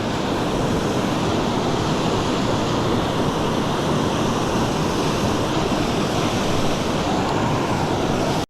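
Mountain stream water rushing over rocks: a steady, loud rush that cuts off abruptly at the end.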